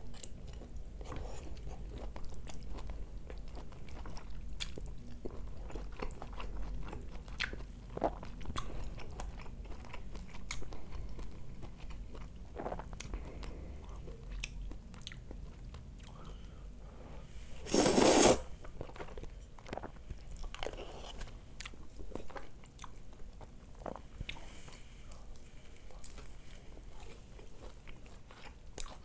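Close-miked chewing and biting of food, with many small wet clicks and light crunches. About two-thirds of the way through comes one much louder, brief burst of noise.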